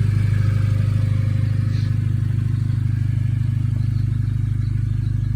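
Audi B8 A4 engine idling steadily on a cold start, running loud with an even low throb.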